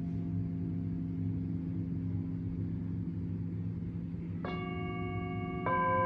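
A steady low drone, then a struck metal instrument rings out about four and a half seconds in, a clear tone with several overtones that holds on. A second strike about a second later adds further ringing tones over the first.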